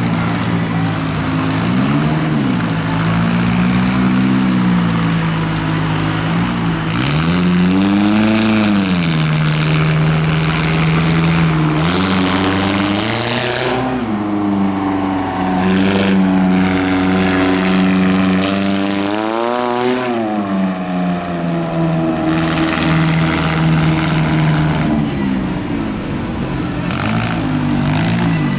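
Monster truck engine revving hard, its pitch climbing and falling several times between long stretches held at a steady high speed.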